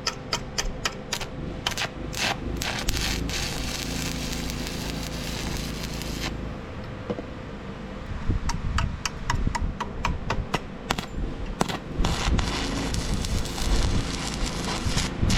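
Stick welder arc crackling and sputtering in several bursts of a few seconds each as small tack welds are laid with 3/32 rods on a 110-volt welder, with sharp clicks as the arc is struck and broken.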